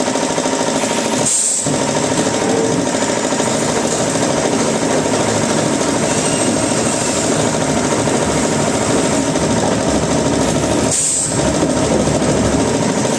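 Wood-cutting machinery running steadily and loudly, dipping briefly about a second in and again near the end.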